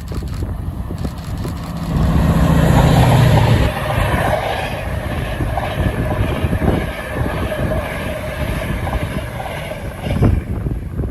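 Class 68 diesel-electric locomotive's Caterpillar V16 engine working under power. A heavy, loud rumble about two seconds in eases off before four seconds, leaving a steady drone with a whine.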